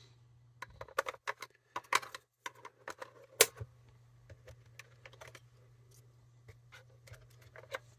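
Irregular small clicks and taps of hands handling a portable radio's plastic case and its small screws on a workbench, densest in the first few seconds, with one sharper click a bit over three seconds in.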